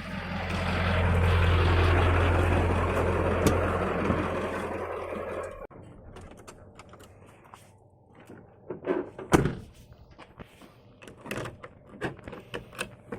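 Diesel truck engine running loud for about five seconds, swelling then slowly fading, and cutting off suddenly. Afterwards scattered knocks and clicks, with one sharp thunk about nine seconds in.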